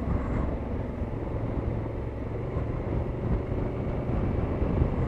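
Motorcycle engine running at a steady speed on the road, a low even hum under wind and road noise.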